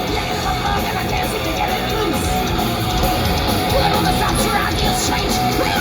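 Live heavy metal band playing, loud distorted electric guitars over bass and drums, in an amateur concert recording.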